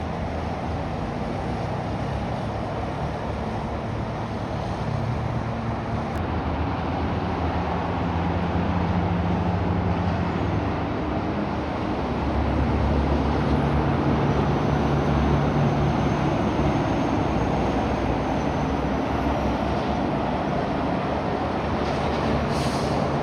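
Heavy trucks' diesel engines and tyres going past on the road, a steady rumble that grows loudest about halfway through as a truck passes. A short hiss comes near the end.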